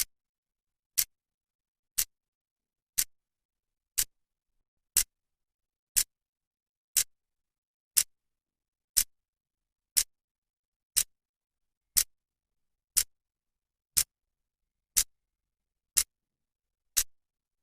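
Analogue clock's second hand ticking once a second, each tick a short sharp click with silence between.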